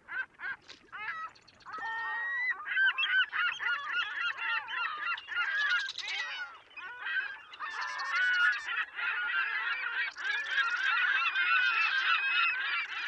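A dense chorus of many birds calling at once, their short calls overlapping continuously.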